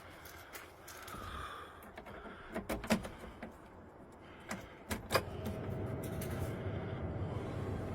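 A few clicks and knocks, then about five seconds in an engine starts from cold on a freezing morning and settles into steady running, with a faint steady tone over it.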